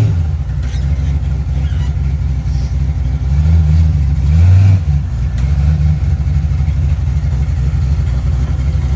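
Vehicle engine running while driving, its revs rising and then dropping back sharply about five seconds in.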